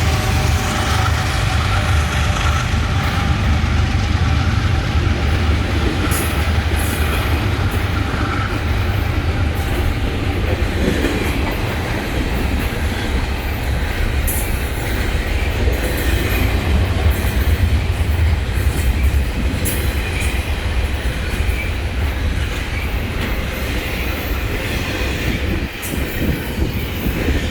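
A train rolling past close by: a steady, heavy rumble of rail cars, with sharp clicks of wheels over rail joints starting about six seconds in.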